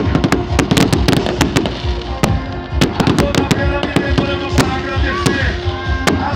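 A rapid, irregular string of firecrackers going off, many sharp cracks a second, thinning out about halfway through, with music playing underneath.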